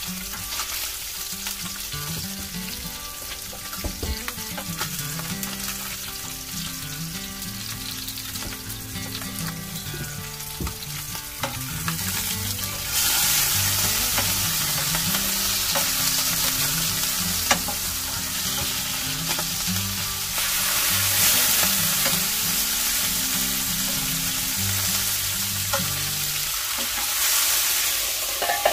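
Salmon frying in a pan, a steady oily sizzle that grows louder about halfway through, with a few light clicks.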